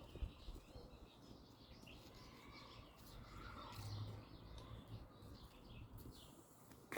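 Birds chirping faintly, with small, scattered calls over a low, steady rumble.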